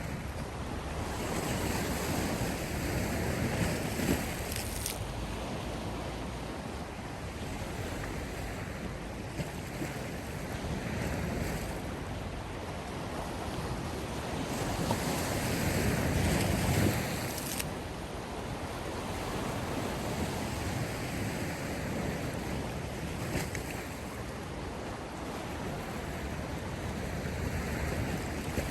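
Sea waves surging and washing in slow swells, the biggest about fifteen seconds in.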